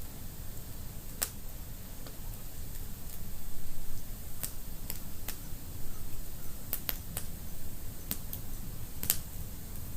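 Fire in a fireplace, crackling with sharp irregular pops, about ten in a few seconds, over a low steady rumble of burning.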